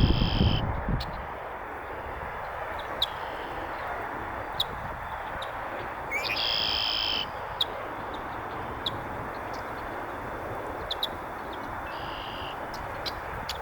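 Male red-winged blackbird giving its buzzy, trilled 'conk-la-ree' territorial song. A song is ending right at the start, a loud full song comes about six seconds in, and a fainter one follows near the end, with short high ticks scattered between over a steady background hiss.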